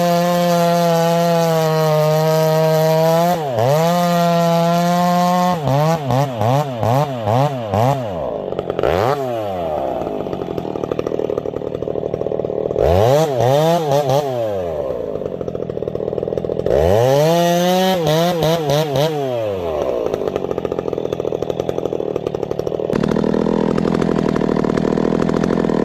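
Stihl MS 500i chainsaw held at steady full throttle for about five seconds. It is then revved up and down repeatedly, with quick blips and long swoops in pitch between idle and high speed. Near the end a steadier, rougher running sound follows.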